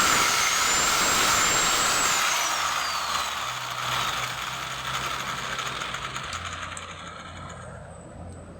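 Handheld electric power tool motor running with a high whine, then switched off about two seconds in, its whine falling in pitch as it winds down and the noise fading away.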